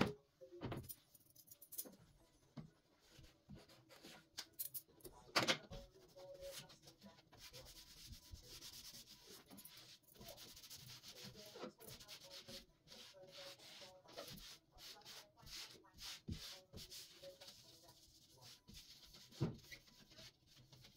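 Faint scrubbing or wiping of a surface, with scattered knocks and light clatters of things being handled. The loudest knocks come about five seconds in and near the end.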